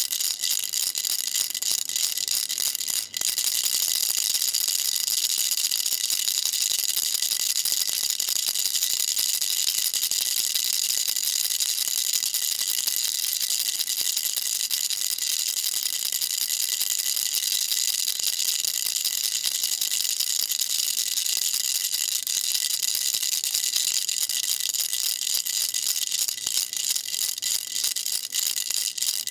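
Baby rattle shaken without pause: a dense, bright stream of tiny clicks from the beads inside, with one brief break about three seconds in.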